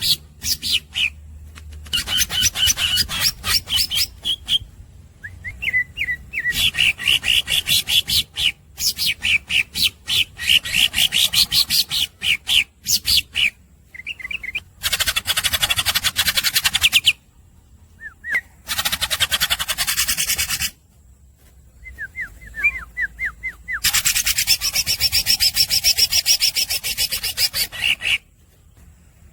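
Cucak ijo (green leafbird) singing in long runs of rapid repeated chattering notes, broken by short pauses, with some harsher rasping stretches mixed in.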